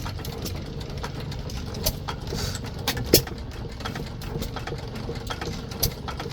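Hit-and-miss stationary engines running at a show: a low steady rumble with irregular sharp pops and clicks. The loudest pop comes a little past three seconds in.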